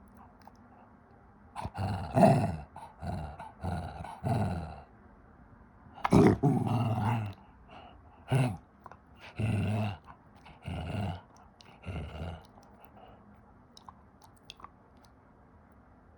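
An old dog growling and grumbling in play, in a string of short vocal bursts, some dropping in pitch, with one longer grumble around the middle. They thin out over the last few seconds.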